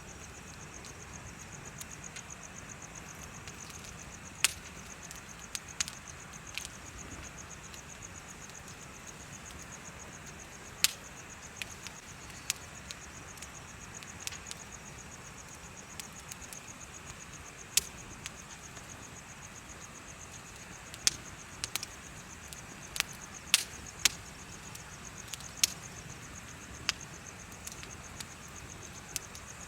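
A wood bonfire crackling, with sharp pops at irregular intervals, over a low steady hiss. Insects chirp throughout in a fast, high, steady trill.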